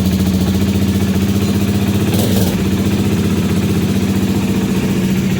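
Bajaj Dominar 400's single-cylinder engine idling steadily through an aftermarket Akrapovic slip-on exhaust, shortly after being started.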